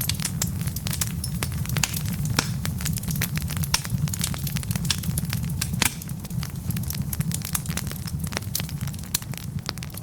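Wood logs burning in a fireplace, crackling: a dense, irregular run of sharp pops and snaps over a steady low rumble of the flames, with one louder pop about six seconds in.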